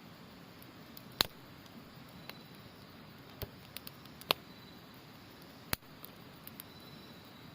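Wood campfire crackling, with a handful of sharp pops, over a steady rush of river water and a faint high trill of autumn insects.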